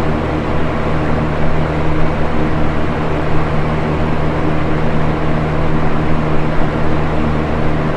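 Box fan running steadily: an even rush of moving air with a low motor hum underneath.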